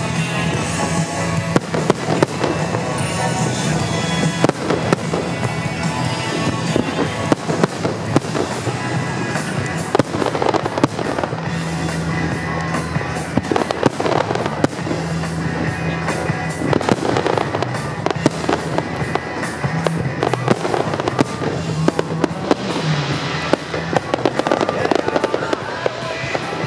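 Fireworks bursting in a dense, continuous barrage of bangs and crackles, over music with steady low notes.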